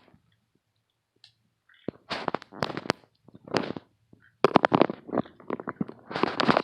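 Green-cheeked conures making weird raspy, crackling noises with sharp clicks, in rough bursts that start about two seconds in and come thicker near the end.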